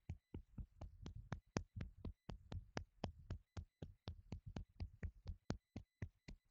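A hand rapidly patting and clapping on the shoulder and upper back in qigong self-tapping, about four to five soft slaps a second, with brief pauses about two seconds in and near the end.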